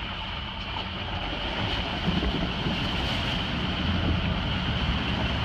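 Truck engine running under load with water rushing against the body while it fords a deep river, heard from inside the closed cab. The rumble and rush slowly grow louder.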